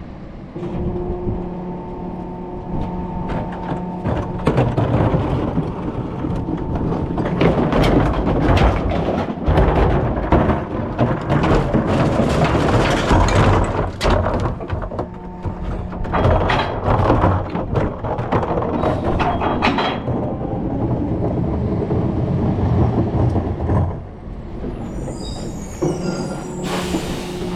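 Rear-loader recycling truck working: the engine and hydraulics run with a steady whine, with long runs of clattering and crashing as recyclables tumble into the hopper and are packed.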